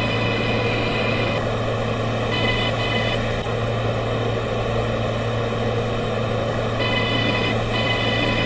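R143 subway train running: a steady rumble and hum, with a set of high steady tones that come in about a second and a half in, drop away, and return near the end.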